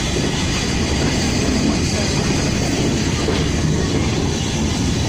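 Steady rumble of a steam-hauled passenger train running along the track, heard from an open passenger wagon.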